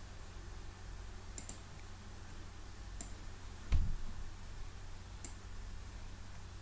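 A few scattered sharp clicks from someone working at a computer, with one louder, deeper thump a little past the middle, over a low steady hum.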